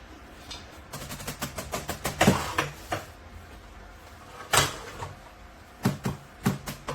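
Donner DED-80 electronic drum kit being played: a quick run of light hits with one louder strike, a single loud strike about halfway, then evenly spaced strikes about half a second apart near the end.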